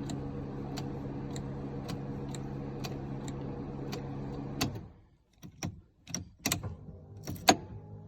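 Steady electric hum of a 1994 Toyota Supra's radiator fans running with the ignition on, with a regular click about twice a second; the engine does not crank. A little over halfway through the hum cuts off suddenly, followed by a few sharp clicks and knocks.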